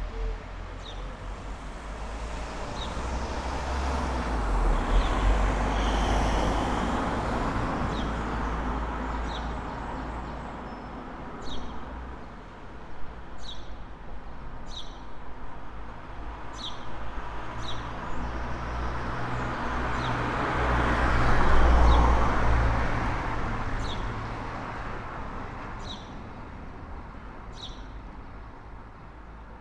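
Two road vehicles passing along a street one after the other, the first swelling to a peak about five seconds in and the second, louder, about twenty-one seconds in, with low rumble under the tyre noise. A bird gives short high chirps about once a second.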